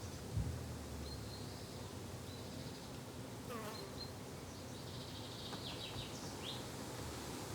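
Summer garden ambience: insects buzzing steadily, with a few short high bird chirps between about three and a half and six and a half seconds in. A single low thump sounds just after the start.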